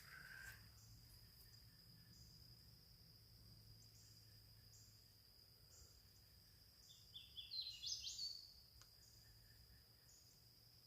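Faint insects calling: a steady high trill with a regular pulsing chirp over it, and a short bird call of quick rising notes about seven to eight seconds in.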